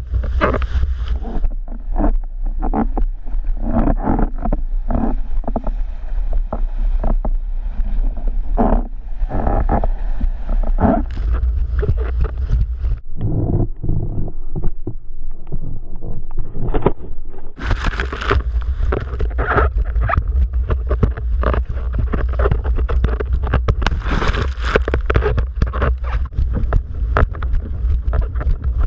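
Strong wind buffeting the microphone over splashing, choppy water while windsurfing. The wind rumble eases for several seconds around the middle, then comes back hard.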